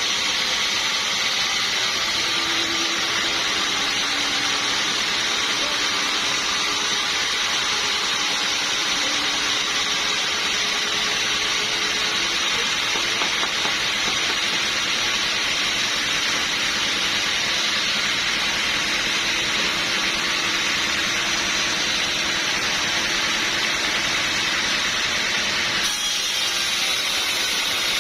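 Sawmill machinery running steadily, a loud, even, hissing machine noise with a faint wavering hum underneath, changing slightly near the end.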